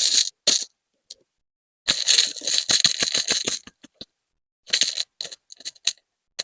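Stone beads clicking and rattling against each other as they are sorted, in bursts with dead silence between: a short burst at the start, a dense run of clicks from about two to nearly four seconds in, and another cluster around five seconds in.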